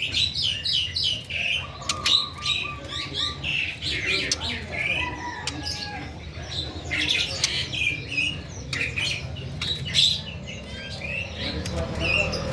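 Young white-rumped shama chirping and calling in quick, varied short notes, with scattered sharp clicks, over a steady low hum.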